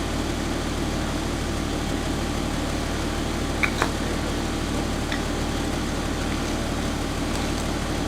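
Off-road Jeep engine running steadily at low revs, with an even, rapid firing pulse. There are a couple of faint clicks a little past halfway.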